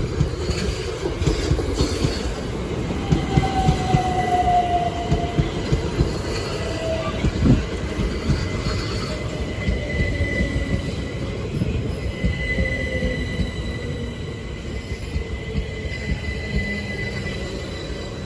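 A train running through, with a dense rumble from the wheels and rails and high, drawn-out wheel squeals, one of them slowly falling in pitch.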